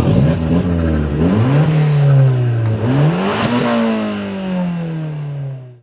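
A car engine revved up twice in quick succession, its pitch then sinking slowly as the revs fall away, with brief hissy bursts near the peaks of each rev.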